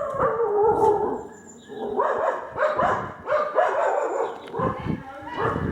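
Stray dogs barking and yipping: a longer call of about a second at the start, then a run of shorter calls.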